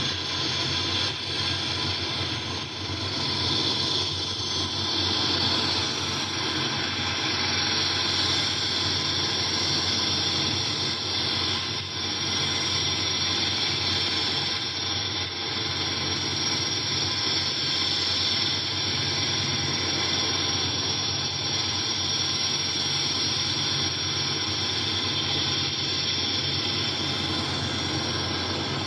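C-27A Spartan's twin turboprop engines running steadily: a constant high turbine whine with several steady tones over loud rumbling noise, one high tone stepping up about six seconds in.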